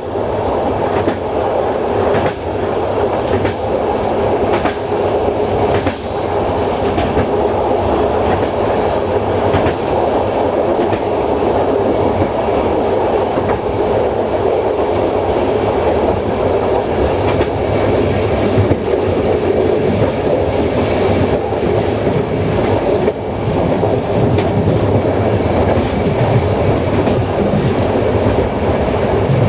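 Passenger train coach running at speed on jointed track, heard from its rear end: a steady rumble of wheels on rail, broken by scattered clicks over rail joints.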